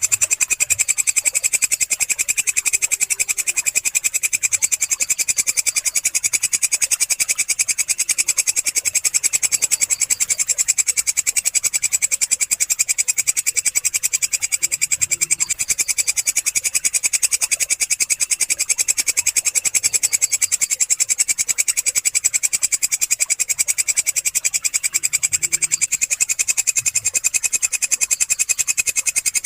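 Walang kecek katydid stridulating: a continuous, high-pitched buzzing trill of rapid, even pulses that never breaks.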